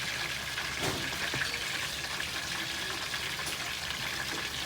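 Chicken pieces deep-frying in hot oil: a steady sizzle with a few scattered crackles.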